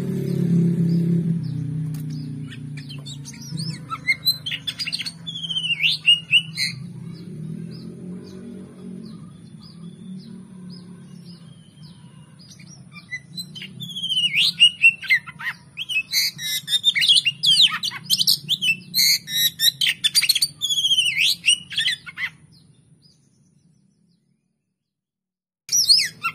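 Oriental magpie-robin (kacer) singing in fast runs of chirps and whistled notes, in two spells, over quiet instrumental music that fades out during the first half. The song breaks off for about two seconds near the end, then starts again.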